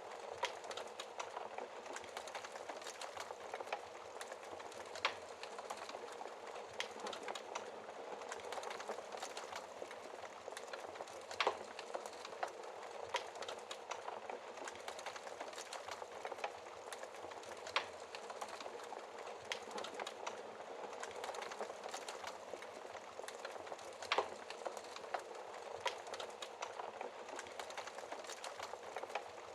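Logs burning in a fireplace: a steady soft hiss full of small crackles, with a sharper pop about every six seconds.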